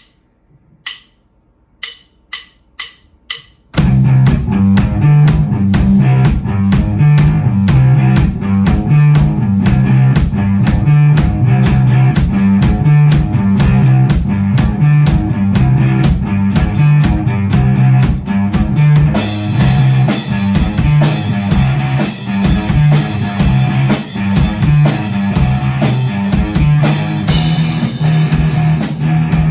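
A rock band rehearsing: a count-in of about five sharp clicks, then drum kit, bass and electric guitar come in together about four seconds in and play on at a steady beat.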